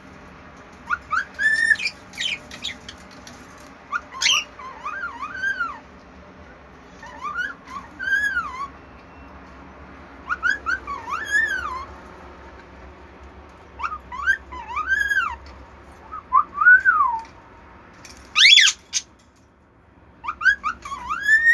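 A pet bird calling in short phrases of whistled notes that rise and fall, a group every couple of seconds, with one sharper, louder call about three-quarters of the way through.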